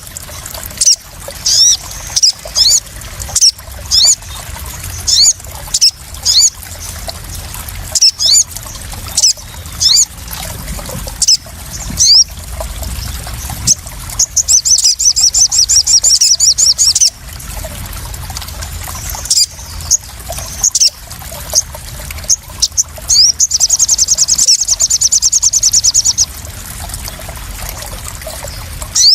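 Sogon sunbird calls used as a lure: sharp high chirps about once a second, with two fast trills of about three seconds each, over steady trickling and splashing water.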